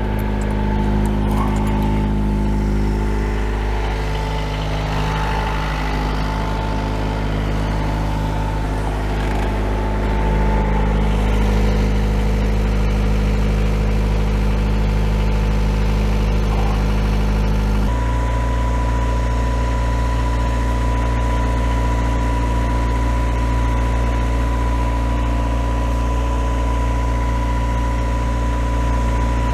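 Perkins 4-108 four-cylinder marine diesel running steadily in gear, with the propeller turning under load. About two-thirds of the way through, its note changes abruptly.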